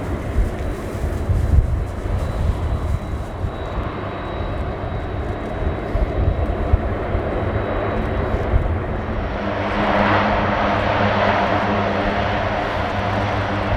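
KC-130J Super Hercules' four Rolls-Royce AE 2100 turboprop engines and six-bladed propellers running, with a steady low propeller hum. The engine noise grows louder about two-thirds of the way through.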